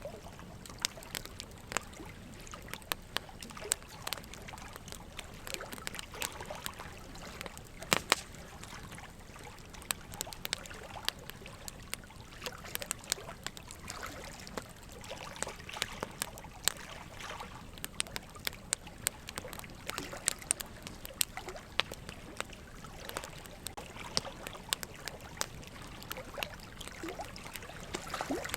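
Wood fire crackling in a fire pit: irregular sharp pops and snaps over a steady low hiss, with one louder pop about eight seconds in.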